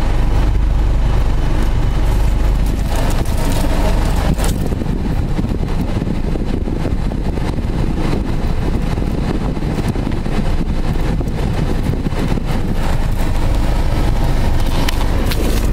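Steady low rumble of a car driving along the road, with tyre and engine noise.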